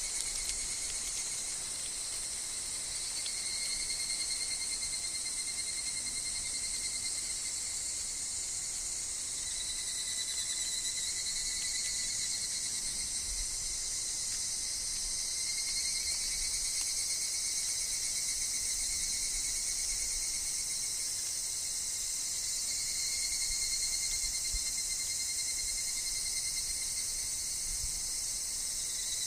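A steady, unbroken chorus of insects in woodland: a dense high shrill buzz, with a fainter steady tone lower down that wavers slightly.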